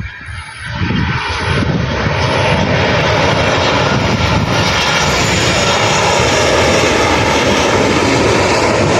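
Airliner's jet engines passing close by: a loud, steady rush and rumble that swells about a second in and then holds.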